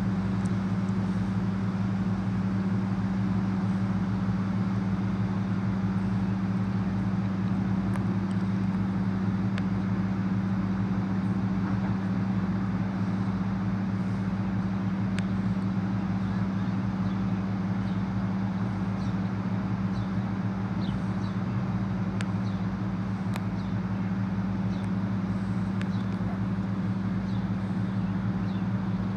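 An engine running at a constant speed, a low steady drone that does not change.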